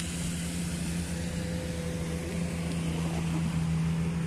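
A watercraft engine running steadily at one pitch, getting a little louder about three seconds in.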